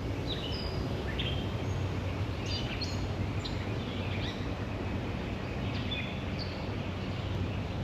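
Wild birds chirping, short high calls scattered throughout, over a steady low hum and rumble of background noise.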